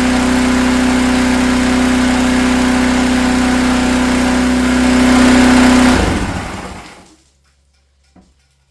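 Gas engine of a DeWalt 4400 psi, 4 GPM pressure washer running steadily under pressure, with the hiss of spraying water. About six seconds in it briefly gets louder, then is shut off and winds down to a stop within a second. A small click follows near the end.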